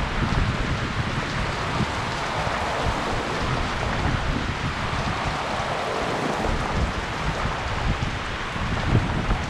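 Heavy rain falling and pattering steadily on surfaces, with many small low thumps of drops hitting close by.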